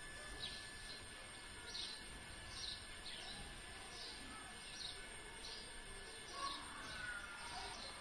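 A bird repeating a short, high chirp roughly every three-quarters of a second over steady background noise, with a few lower calls near the end.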